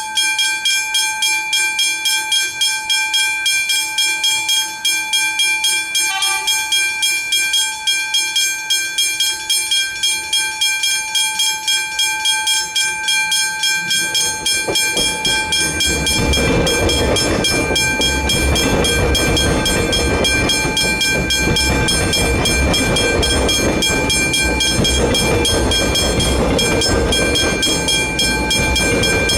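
Railway level crossing warning bells ringing rapidly and steadily, about four strokes a second. From about 15 seconds in, the rumble of a passing train joins the bells.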